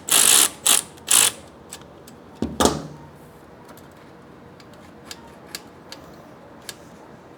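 Hand tools and metal parts being worked on a motorcycle exhaust pipe clamp: a few short scraping rasps, a knock about two and a half seconds in, then scattered faint clicks.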